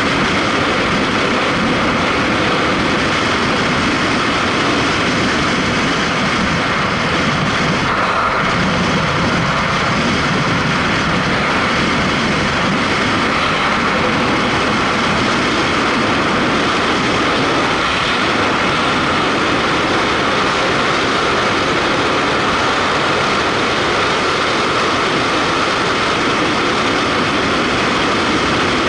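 Heavy rain pouring down, a loud, steady, dense hiss that holds the same level throughout.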